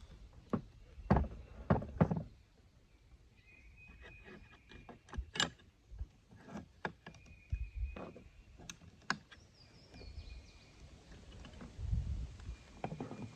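Scattered sharp clicks and knocks of a K31 Swiss rifle's metal and wooden parts being handled and fitted together during reassembly, with a few louder knocks about a second and two seconds in.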